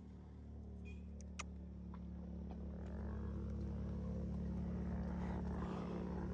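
Four-wheeler (ATV) engine running steadily, heard faintly and growing slightly louder.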